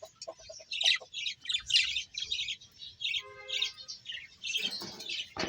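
Several small birds chirping rapidly over one another, with a short, lower squawk-like call about three seconds in.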